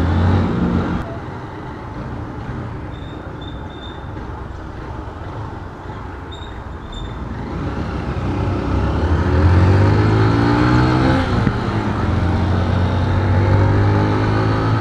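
Small motorcycle engine heard from the rider's seat in city traffic: it runs quietly at low revs for several seconds, then revs up with rising pitch about eight seconds in, dips briefly at a gear change, and pulls on steadily.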